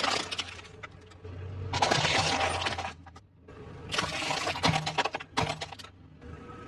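Crunchy fried food being bitten and chewed: two bursts of crackling crunches, each about a second long, with quiet gaps between.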